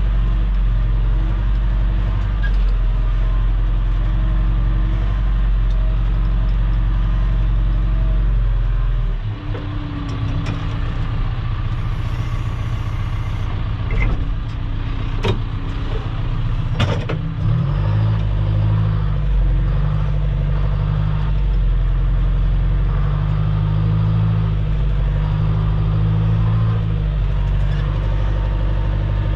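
Loader's engine running steadily under load while its bucket, set in float, back-drags gravel. The engine note changes about a third of the way in, a few sharp knocks come around the middle, and a pulsing low throb follows.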